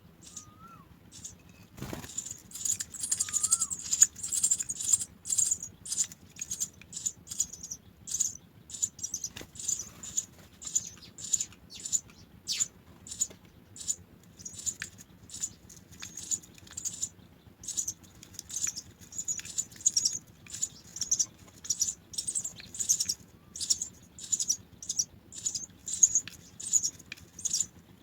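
House sparrow nestlings chirping: a steady run of short, high-pitched calls, about two a second, typical of chicks begging for food.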